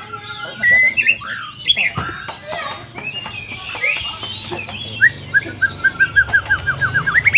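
White-rumped shama (murai batu) singing vigorously: a varied string of whistled phrases and glides, then from about five seconds in a fast run of repeated short notes.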